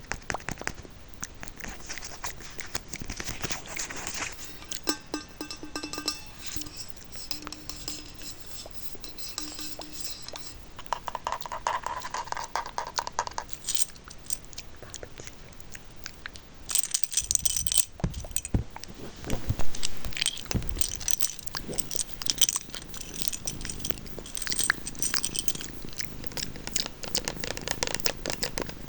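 Close-miked ASMR trigger sounds: a dense run of small clicks, taps and crackles. Heavier low thumps come in partway through.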